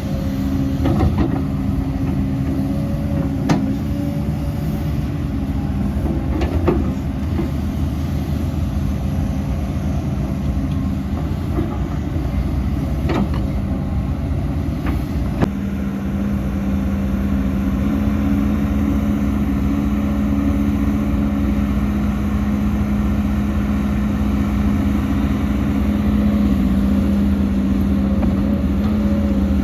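Heavy diesel earthmoving machinery running steadily, with a few sharp knocks in the first half. About halfway through, the engine comes under more load and runs louder, then holds there.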